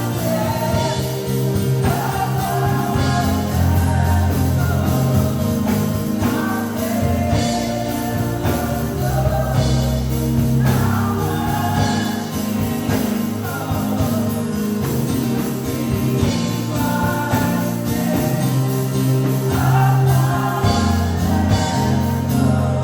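Gospel worship music: voices singing in long phrases over sustained keyboard chords and bass, with light percussion such as a tambourine.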